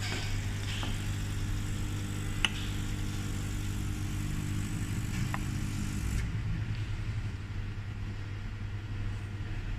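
Espresso machine humming steadily with a faint hiss and a couple of light clicks; the hiss cuts off about six seconds in.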